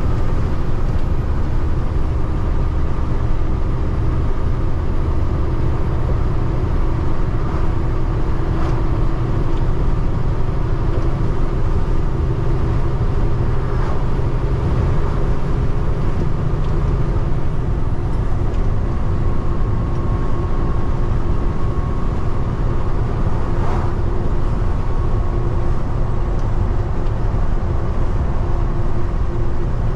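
Peterbilt 589 dump truck driving: steady engine and road noise with a low rumble and a constant hum.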